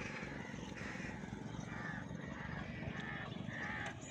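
Birds calling, several short harsh calls at irregular intervals over a steady rushing background.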